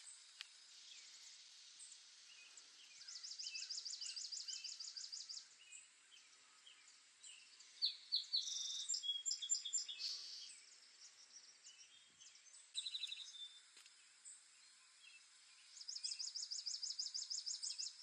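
Songbirds singing: a bird sings a fast trill of evenly repeated high notes, lasting about two seconds, three times, and a louder, more varied song comes in the middle, all over a steady faint high hiss of natural ambience.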